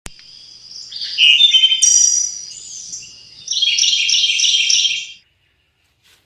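Birds chirping and singing loudly, with several high overlapping calls and a run of quick repeated notes near the end. The sound stops abruptly about five seconds in.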